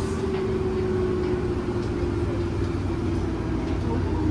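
JR 205 series 1000-subseries electric train heard from inside the car: traction motor and gear whine falling slowly in pitch as the train slows, over the rumble of wheels on rail.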